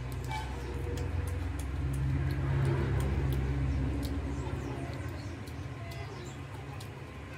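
Close-miked eating: a person chewing fried fish and rice, with many small wet mouth clicks and smacks over a low rumble that swells in the middle.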